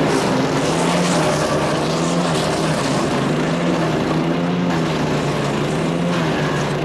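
Kohler CH440 single-cylinder engine of a PowerKing chipper shredder running steadily at working speed, with a loud rushing noise over the engine note.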